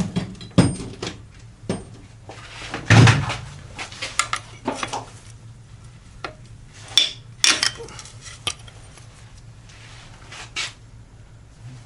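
Metal hand tools and parts clinking and knocking against each other during work on a transfer case, in scattered irregular strikes, the loudest knock about three seconds in.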